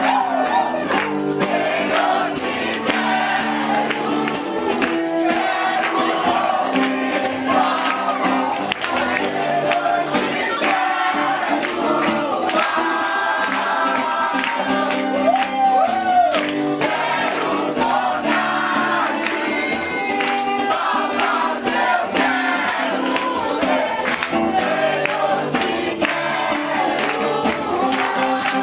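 Gospel worship music: voices singing together over instruments, with a steady beat of shaken percussion.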